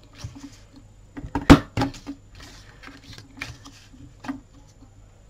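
Hand-held corner rounder punch clacking as it cuts the rounded corners of a cardstock square: one sharp clack about one and a half seconds in, with lighter clicks and paper rustling between.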